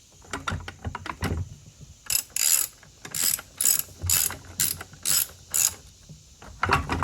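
Ratchet wrench clicking: a few loose clicks, then a run of short back-and-forth strokes at about two a second, with one more stroke near the end.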